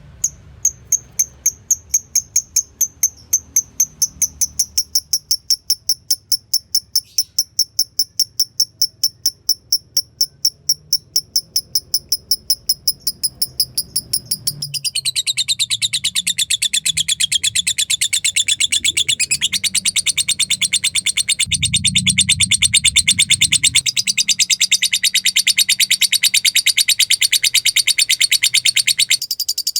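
Lovebird calling: a rapid, evenly spaced run of high chips ('ngetik') at about four a second, which about halfway through breaks into a louder, denser, unbroken long chatter ('ngekek panjang').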